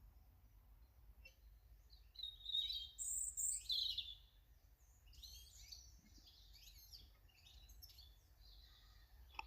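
Small garden birds chirping and calling at high pitch, a loud burst of calls about two to four seconds in, then softer scattered chirps.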